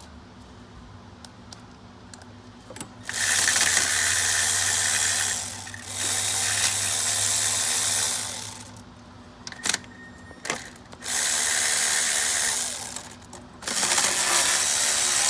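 A handheld power tool runs in four bursts of two to three seconds each, with short pauses and a few sharp clicks between them.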